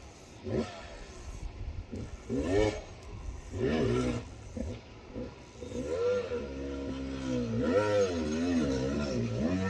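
A dog whining: short rising and falling cries, then a long, wavering whine from about halfway through.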